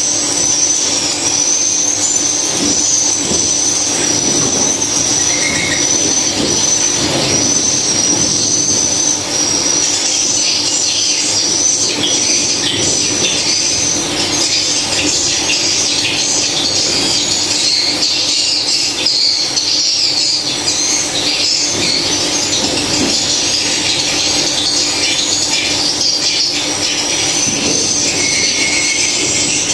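Dense, continuous high-pitched chirping and twittering of edible-nest swiftlets inside a swiftlet house, a steady warbling chorus.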